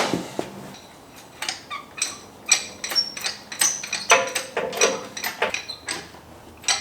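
Irregular metallic clinks and clanks, a few a second at times, some ringing briefly, as the old engine is worked out of the Dodge D150's engine bay.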